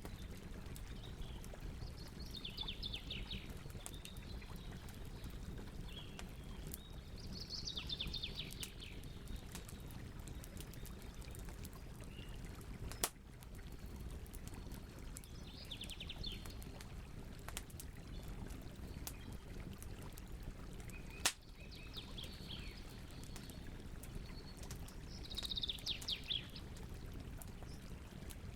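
Campfire burning with a steady low rush and faint crackling, and two sharp pops, one near the middle and one about two-thirds through. Over it a small bird calls about five times, each a short, quick trill.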